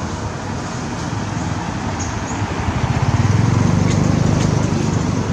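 Low engine rumble from a motor vehicle, growing louder about three seconds in and easing near the end.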